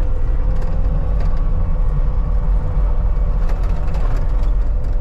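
CAT 279D compact track loader's diesel engine running steadily, a low drone with faint light rattles.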